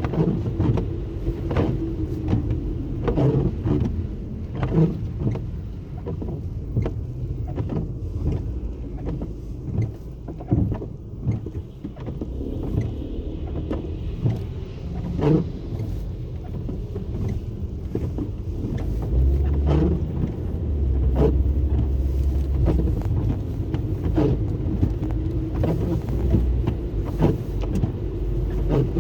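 Car driving: a steady low road-and-engine rumble with a constant hum, broken by frequent irregular knocks and thumps.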